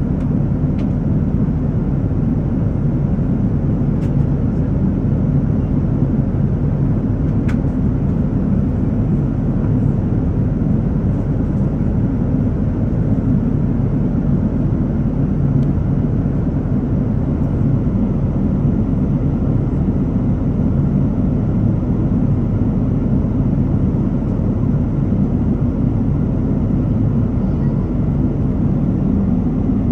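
Steady cabin noise of an airliner in flight: the even, low rumble of the engines and rushing air, heard from a window seat. A few faint ticks in the first eight seconds.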